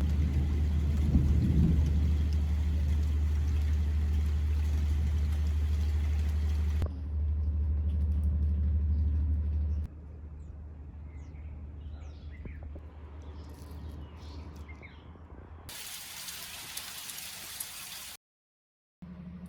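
A steady low rumble for about ten seconds, then birds chirping over quiet background, then a few seconds of steady rain hiss that cuts off sharply.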